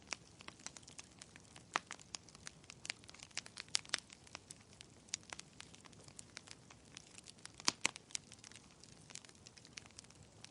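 Wood fire in a fireplace crackling: a steady low hiss under irregular sharp pops and snaps, a few louder ones standing out, the loudest about three-quarters of the way through.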